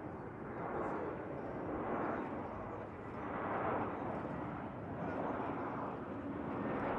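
Jet aircraft engines, a steady noisy roar that swells and eases every second or so, with a faint low hum under it.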